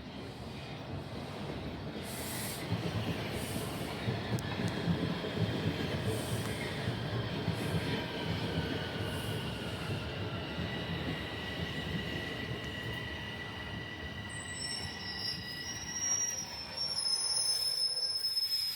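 A Toronto TTC rail train running with a steady low rumble and a whining tone over it. High-pitched wheel squeal sets in during the last few seconds, before the sound cuts off abruptly.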